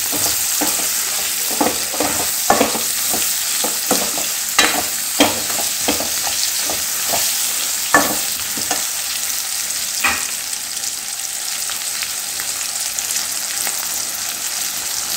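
Onion and green capsicum pieces sizzling as they fry in a metal kadai while a steel ladle stirs them, its strokes clicking and scraping against the pan. The clicks come often over the first ten seconds or so and then thin out, leaving steady sizzling.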